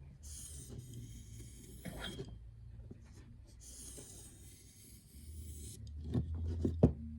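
Steel knife blade drawn edge-trailing along a leather strop loaded with 1.5 micron diamond spray: two slow rubbing strokes of about two seconds each. A few light knocks follow near the end, the loudest about seven seconds in.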